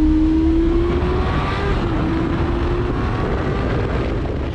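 Motorcycle engine running under way, its pitch slowly climbing, dipping about two seconds in and then climbing again, over a low rumble that fades toward the end.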